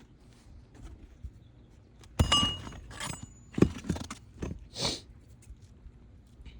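Brittle old asphalt roof shingles being lifted and handled, crackling and scraping, with a sharp clatter about two seconds in and several more scrapes and knocks after it.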